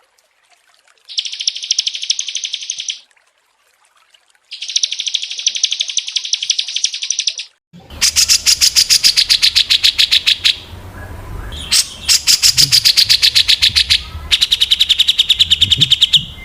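Small songbirds singing rapid-fire trilled bursts, each a dense run of fast repeated high notes lasting about two seconds, with short gaps between. About eight seconds in, the recording changes to one with a low background rumble, and the bursts go on.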